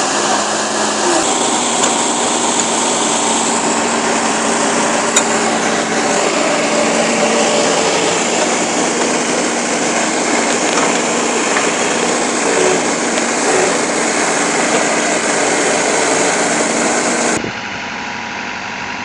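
An engine running loudly and steadily, with a dense mechanical noise over it. It cuts off suddenly near the end to a quieter engine sound.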